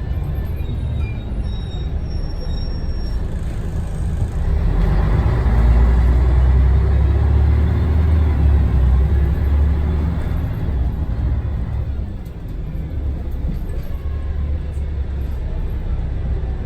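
Scania DSC1171 11-litre six-cylinder diesel of a Scania L113TRB bus running with a deep rumble. It grows louder about four seconds in as the engine works harder, then eases back about twelve seconds in.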